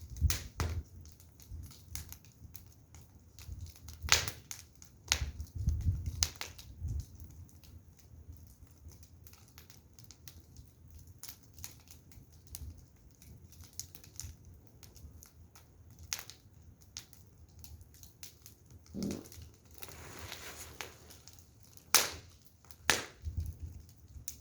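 Wood fire crackling, with irregular sharp pops and snaps over a low rumble of burning, and a short hiss about twenty seconds in.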